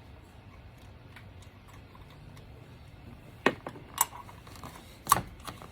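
Socket wrench ratchet clicking faintly, then three sharp metallic clacks of hand tools near the end.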